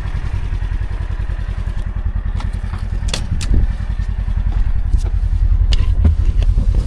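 Side-by-side UTV engine running as it drives, a steady low throb, with scattered sharp clicks and knocks from the machine rattling along a dirt trail. It grows a little louder about halfway through.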